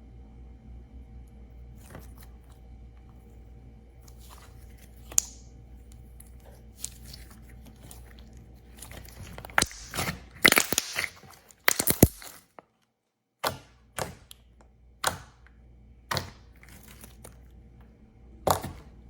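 Slime being pressed and pulled by hand, giving crackling and popping sounds. It is faint at first, then comes a run of loud crackles about halfway through, followed by single sharp pops about a second apart.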